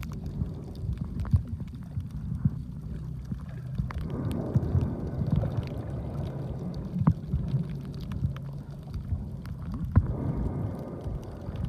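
Muffled underwater sound from a snorkeler's camera: a steady low rumble of water movement with scattered sharp clicks and ticks.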